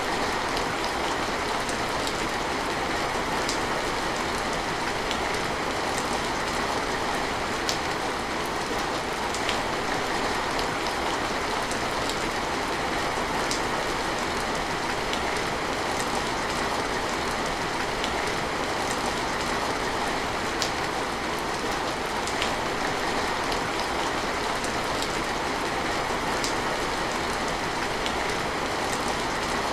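Steady heavy rain falling, an even hiss with scattered sharp drips ticking through it.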